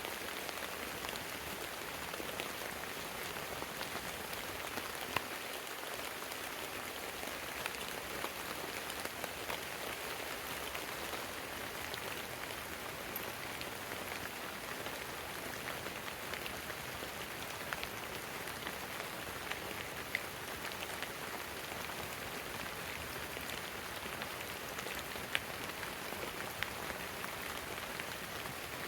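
Steady heavy rain, with sharp clicks now and then as single drops strike close by.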